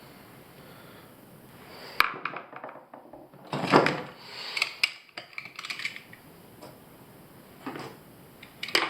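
Small metal tools and faucet parts being handled on a hard surface: a sharp clink about two seconds in, a louder scrape or rub near four seconds, then a few lighter clicks and taps.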